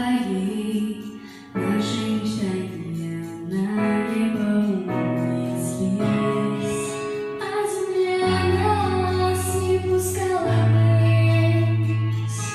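A slow song sung by a female voice over an accompaniment of sustained chords, with held notes that change pitch and a deeper bass line coming in about two-thirds of the way through.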